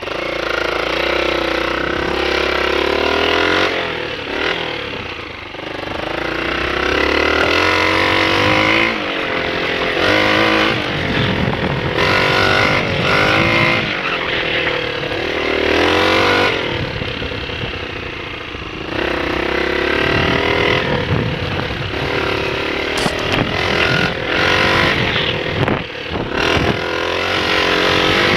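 Honda XLR125 dirt bike's single-cylinder four-stroke engine running and being revved up and down over and over, its pitch rising and falling again and again.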